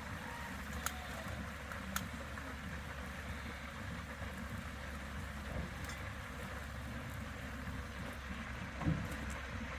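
Steady hiss and low rumble of a propane turkey-fryer burner, with bubbling oil, and two sharp clicks about a second and two seconds in.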